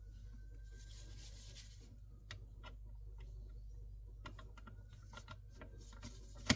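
Light clicks, taps and rustling of hands working wires and a smart switch into a wall socket's back box, with one sharper click near the end.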